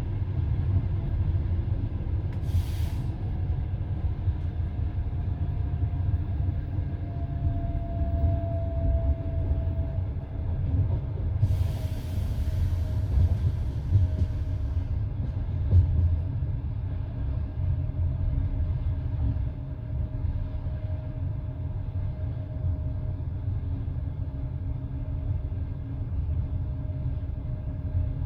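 Passenger railway carriage running along the track, heard from its window: a steady low rumble of wheels on rails with a faint whine that slowly falls in pitch. Two bursts of hiss cut in, a short one about three seconds in and a longer one of a few seconds near the middle.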